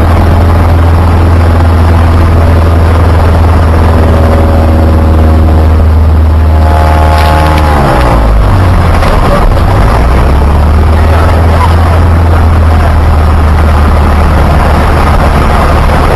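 Loud, steady aircraft engine drone with a strong low hum; about seven seconds in its pitch slides down, then it carries on steadily.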